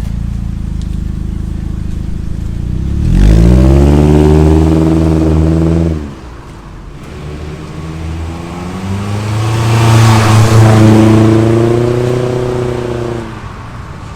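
Proton Inspira's four-cylinder engine running through a new stainless-steel rear exhaust with a 'saxophone' muffler, revved up twice from a steady drone. The first rev rises quickly about three seconds in, is held and cuts off sharply. The second builds more slowly and tails off near the end, with a deep exhaust note described as 'bass padu'.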